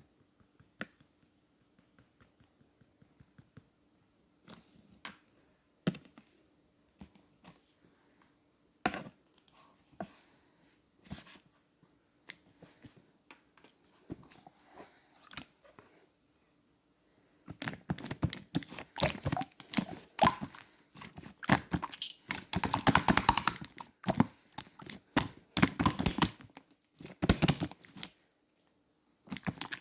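Purple pudding-textured slime being handled by hand: scattered soft clicks and squishes at first, then from a little past halfway a dense, busy run of crackling, squelching pops as it is pressed and stretched.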